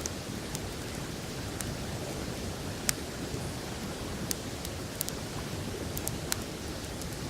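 Open wood campfire crackling, with scattered sharp pops, the loudest about three seconds in, over the steady rush of a river.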